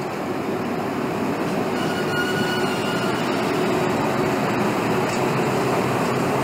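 DB Class 140 electric locomotive and its coaches passing, a steady rumble of wheels on the track that grows slightly louder, with a brief high wheel squeal about two seconds in.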